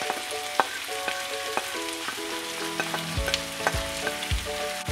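Shrimp and vegetables sizzling in a hot frying pan as broccoli and carrots are tipped in from a plate, with scattered light clicks and knocks of food landing in the pan. A light tune plays underneath, a steady low beat joining it about three seconds in.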